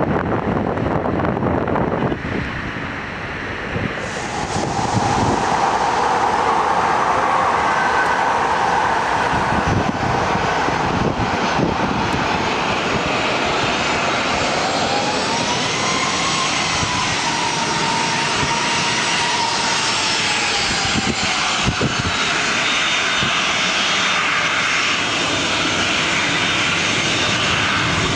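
Jet airliner's engines as it passes close by. The noise swells about four seconds in and stays loud. Midway a whine bends up in pitch and then slowly glides down.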